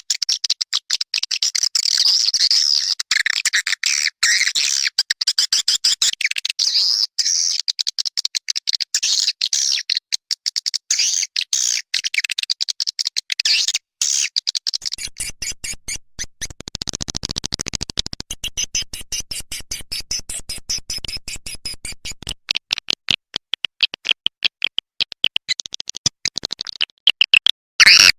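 Swiftlet call track, a lure sound for drawing swiftlets into a nesting house: a dense, rapid stream of high chirping twitters. Partway through, a lower pulsing buzz runs under the chirps for several seconds, and the chirps grow louder near the end.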